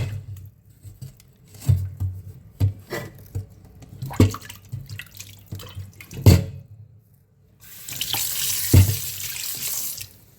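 Water tap running for about two seconds near the end, with a thump partway through. Before it comes a series of separate knocks and thuds from items being handled.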